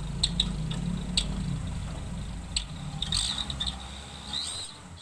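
Daihatsu Gran Max engine idling through a makeshift exhaust, a low steady rumble that slowly fades toward the end, with a few light clicks and faint high chirps over it.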